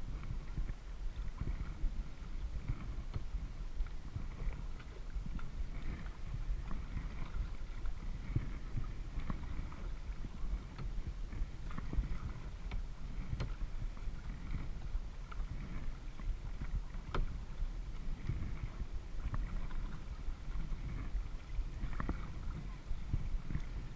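Kayak being paddled: water splashing and lapping against the hull, with scattered light clicks and knocks over a steady low rumble.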